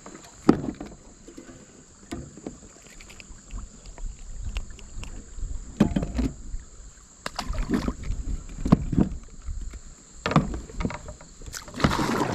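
Kayak handling sounds: irregular knocks and bumps on the hull with water moving around the boat, and a louder rush of noise near the end.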